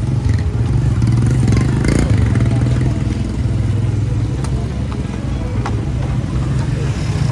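Motorcycle engine running steadily, with scattered clatter from the street; the engine eases off a little about three seconds in.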